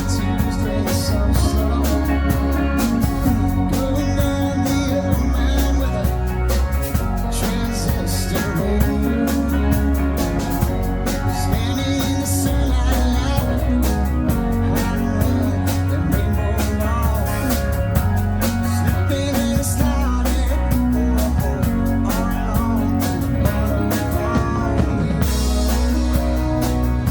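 Rock band playing: electric guitar, bass and drum kit, with a little singing, at a steady loud level with regular drum hits.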